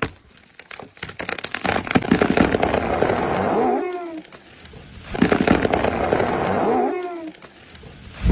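A tree trunk cracking and creaking as it gives way, twice: a run of snapping wood fibres builds up and ends in creaks that fall in pitch. A short thump comes right at the end.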